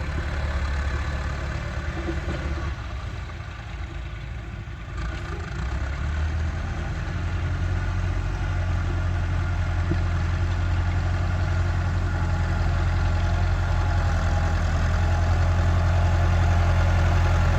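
Massey Ferguson 385 tractor's four-cylinder diesel engine running steadily, easing off about three seconds in and then growing gradually louder from about five seconds in.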